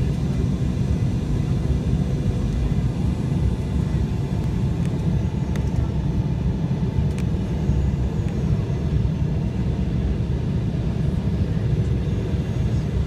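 Passenger airliner cabin noise on a landing approach: a loud, steady low rumble of engines and airflow, with a faint constant hum running through it.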